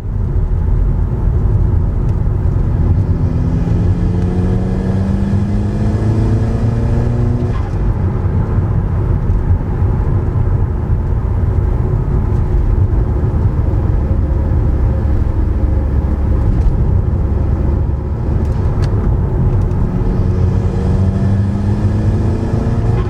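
Audi S3 8P's turbocharged 2.0 TFSI four-cylinder running through a BCS Powervalve exhaust with its valve clamped 20% open, with the car driving under load. The engine note rises steadily twice, about four seconds in and again near the end, over a steady low rumble.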